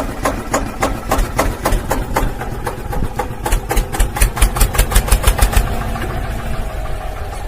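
Small electric motor of a homemade model chaff cutter running, with a rapid, regular clicking of about five clicks a second over a steady hum.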